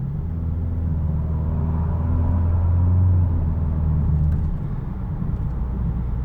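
Kia Stinger 2.0-litre turbo four with an NGM axle-back exhaust, heard from inside the cabin while driving: a deep exhaust drone that builds for about three seconds and drops back about four and a half seconds in.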